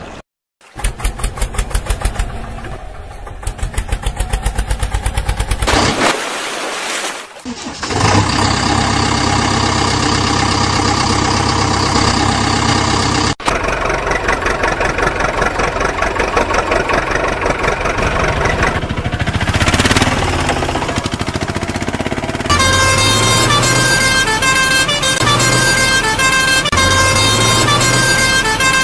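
Sequence of truck engine and horn sounds: rapid even engine pulses at first, then steady horn-like tones over engine noise, and near the end a repeating pattern of steady tones.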